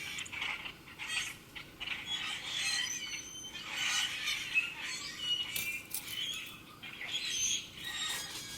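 Several birds chirping and calling over one another in a busy, overlapping chorus of short high notes.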